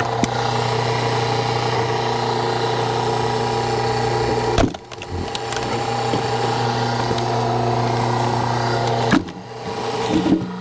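Hydraulic log splitter's engine running steadily while the wedge pushes through a firewood log, with two sharp cracks of wood splitting apart, about halfway through and again near the end.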